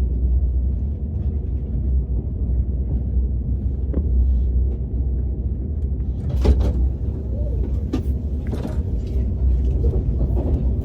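Steady low rumble of a KTX high-speed train heard from inside the carriage as it runs, with a few light clicks in the second half.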